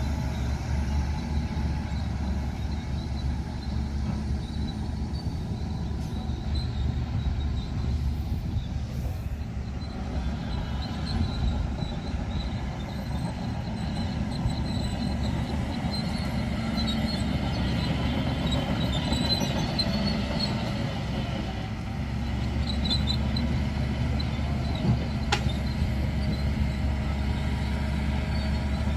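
Bulldozer's diesel engine running steadily as it works, with faint high squeals in the middle and a single sharp click near the end.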